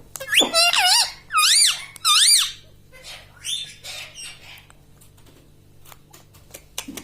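Rose-ringed parakeet (ringneck parrot) giving shrill, squeaky calls. Three loud calls come in quick succession in the first two and a half seconds, each rising and falling in pitch. A few rougher, fainter calls follow before it goes quieter.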